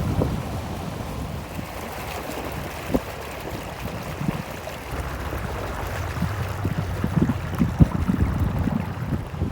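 Wind buffeting the microphone in a low, uneven rumble, over moving water, with a couple of short knocks about three seconds in and near the end.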